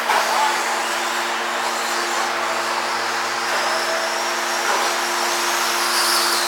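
Stock two-wheel-drive radio-controlled race trucks running laps: a steady whir of their motors and tyres, with a higher whine coming up near the end as a truck passes close.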